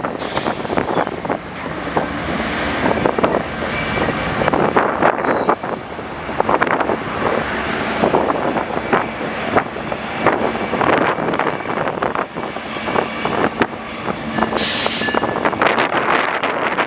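Railroad freight cars rolling past on the track, with a steady run of wheel clatter and knocks. A short high-pitched burst comes about fifteen seconds in.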